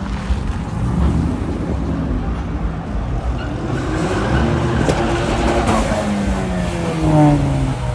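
Car engines running loud, with one engine's note swelling and then falling away over the last few seconds, as in a rev or a car driving past.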